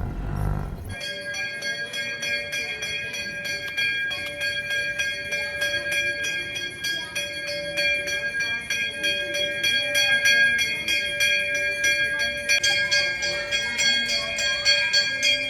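Bells ringing steadily, with jingling in a quick, even rhythm layered over sustained ringing tones. A low rumble fades out about a second in.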